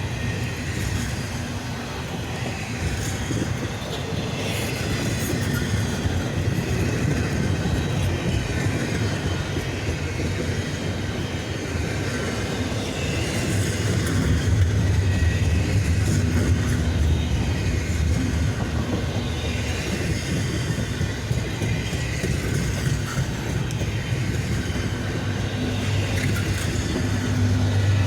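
CSX double-stack container freight train rolling past, with a steady noise of wheels on the rails.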